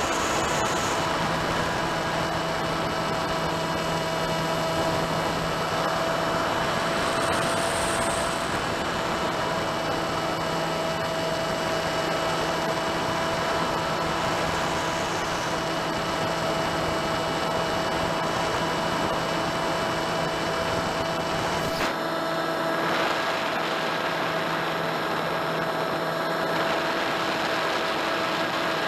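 Steady whine with a rushing noise from a small electric RC plane in flight, heard through its onboard FPV audio. About 22 s in, the low rumble drops away while the whine carries on.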